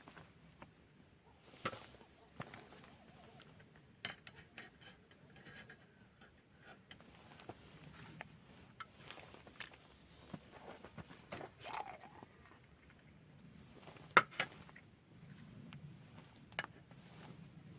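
Small objects being handled: scattered sharp clicks and taps with soft rustling between them, the loudest click about fourteen seconds in.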